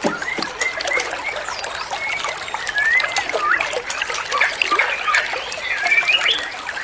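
Songbirds singing in quick, short whistled phrases with rising and falling notes, over a steady trickle of running water.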